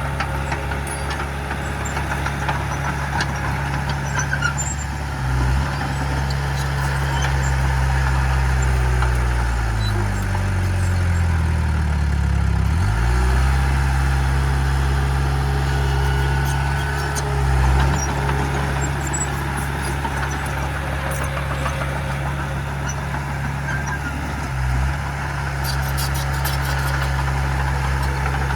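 Heavy diesel engine of earthmoving equipment running steadily. About halfway through, the engine note sinks and then climbs back. There are a few short louder swells along the way.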